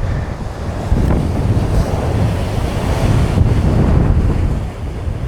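Ocean surf breaking on the shore with strong wind buffeting the microphone, a dense rush that swells from about a second in and eases near the end.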